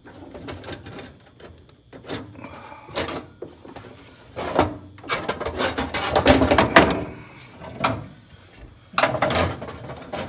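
A screwdriver prying and scraping at a stuck part of a car's transmission linkage, with irregular metallic clicks and knocks and a busier stretch of scraping midway through.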